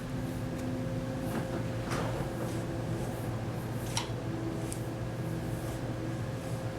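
Steady room hum with a few faint light clicks and rustles, about two and four seconds in.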